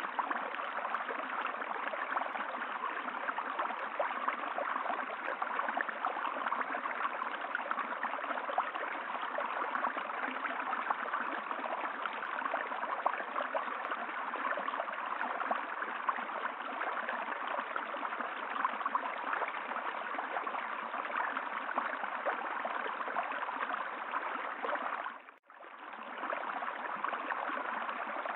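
Flowing water running steadily, like a stream. It dips out briefly about 25 seconds in and fades back in.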